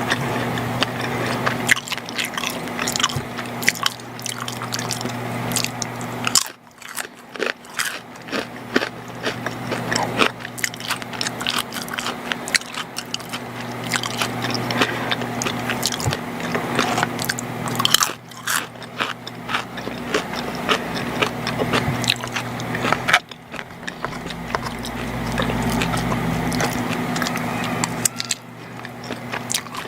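Close-miked chewing and biting of macaroni and cheese: dense, irregular wet mouth clicks with a few brief pauses, over a steady low hum.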